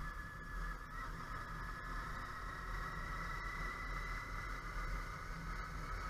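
Vehicle driving along the road: steady low engine and road rumble with a faint steady whine above it.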